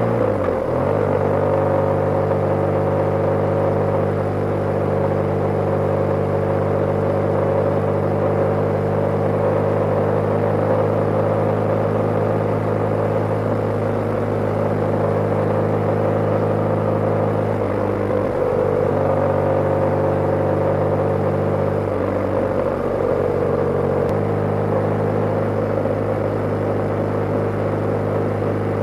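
BMW G/S motorcycle engine running steadily at cruising speed, its note dipping and changing pitch briefly about half a second in and twice more in the latter half as the revs change.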